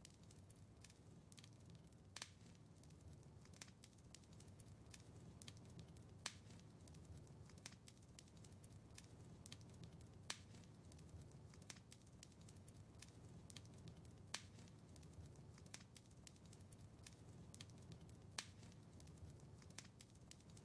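Wood fire crackling quietly in a fireplace: a steady scatter of small snaps over a low rumble, with a louder pop about every four seconds.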